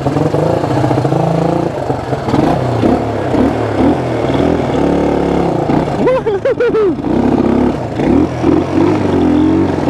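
1974 Honda XL175's single-cylinder four-stroke engine revving up and down repeatedly as the motorcycle is ridden.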